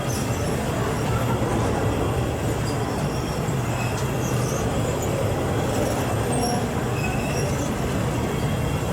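Train running on the rails: a steady rumble and rattle with a few faint, short high squeaks.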